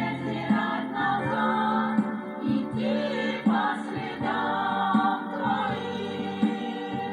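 Worship band playing, with several voices singing together over instruments and a steady beat.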